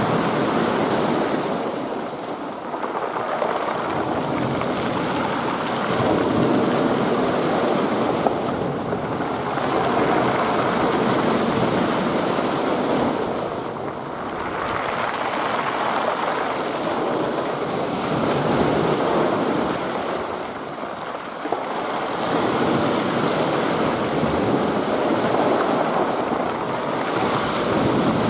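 Ocean surf: waves breaking and washing on the shore in a continuous rush that swells and eases every several seconds.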